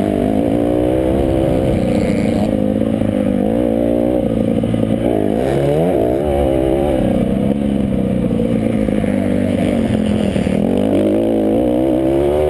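Several motocross motorcycle engines running and revving together, their pitches overlapping and continually rising and falling as the bikes accelerate and shift.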